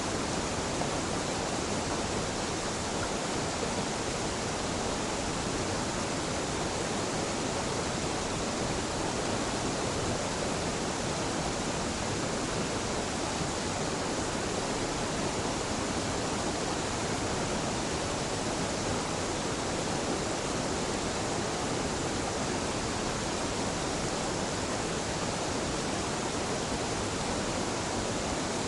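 Mountain waterfall pouring steadily: a continuous even rush of falling water.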